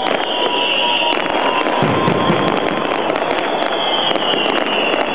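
Fireworks display going full tilt: aerial shells bursting overhead with dense, continuous crackling and popping, and a deeper bang about two seconds in.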